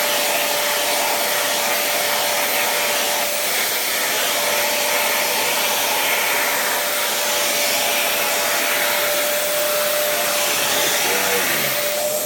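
Vacuum cleaner running steadily: a constant whine over a rushing hiss of air.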